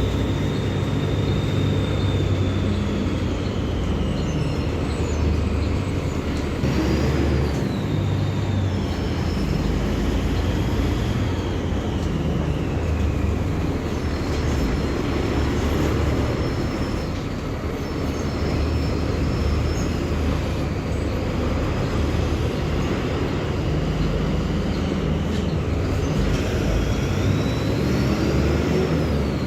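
Mercedes-Benz OF-1724L bus's diesel engine running under way, its pitch shifting as engine speed changes. A high whine falls slowly over the first dozen seconds, rises again about seven seconds in, and climbs once more near the end.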